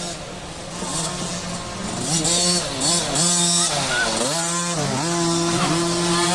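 Dirt bike engine revving up and down over and over as the rider works the throttle and shifts. It gets louder about two seconds in as the bike comes closer.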